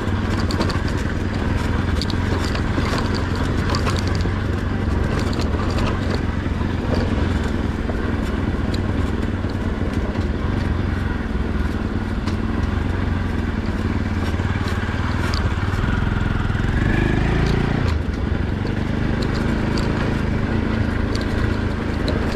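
Motorcycle engine running steadily while riding, with scattered light clicks and knocks. The engine note shifts briefly about seventeen seconds in.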